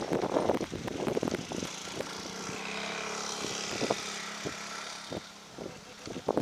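Turboprop airliner's engines and propellers passing, swelling to a peak about three seconds in and fading away, with wind buffeting the microphone in the first second or so.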